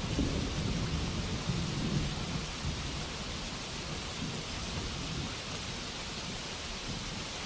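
Steady rainfall, with a low rumble of thunder dying away over the first couple of seconds.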